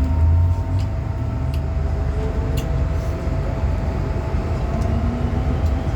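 Interior sound of an MTR M-Train electric metro car underway: a steady low rumble of wheels on rail, with traction-motor whine rising in pitch as the train gathers speed after leaving the station. A few short sharp clicks are heard over it.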